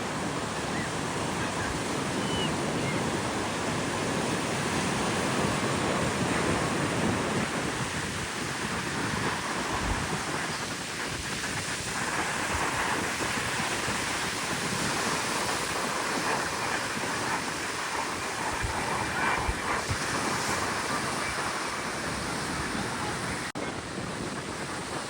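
Steady wind blowing on the microphone over breaking surf, with occasional low buffeting thumps.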